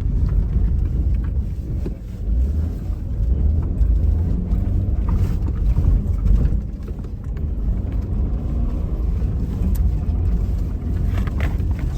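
2017 Subaru Forester driving through deep snow with all-wheel drive engaged: a steady low rumble of engine and tyres pushing through snow.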